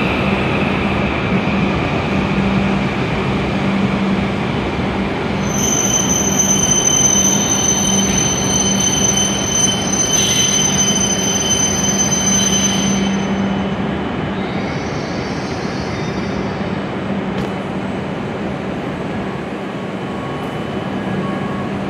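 W7 series Shinkansen train pulling in and braking to a stop: steady running noise, with a high-pitched squeal from about six seconds in to about thirteen seconds. The noise eases off as the train comes to a halt near the end.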